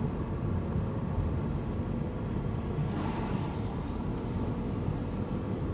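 Steady wind rumble on the microphone over street traffic noise, with a brief swell about three seconds in.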